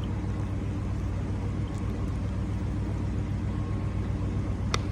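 Car engine idling with a steady low rumble, with a short click near the end.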